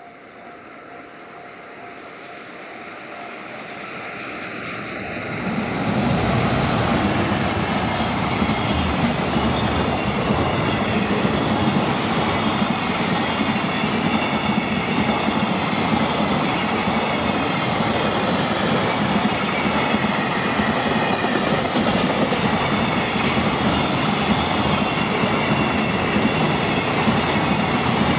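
A JR Freight EF210 electric locomotive hauling a container freight train approaches and passes close by. The sound grows louder over about six seconds, then holds as a loud, steady rumble and clatter of wagon wheels on the rails.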